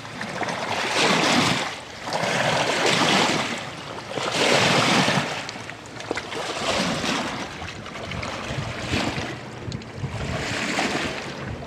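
Water waves washing in: a rushing noise that swells and fades about every two seconds.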